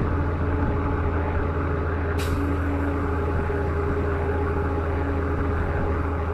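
Truck engine running steadily at speed, heard from close behind with road noise, and a short hiss about two seconds in.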